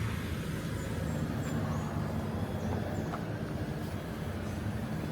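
Motorbike engine running steadily, a low even hum.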